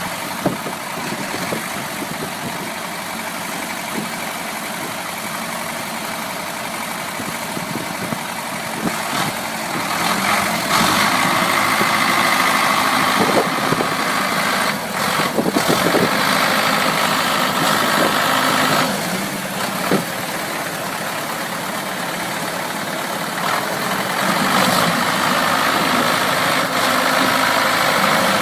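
A motor vehicle's engine running steadily. It gets louder about ten seconds in.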